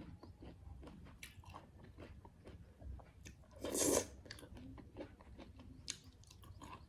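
A person chewing and biting food close to the microphone: small crunches and wet mouth clicks, with one louder crunch about four seconds in.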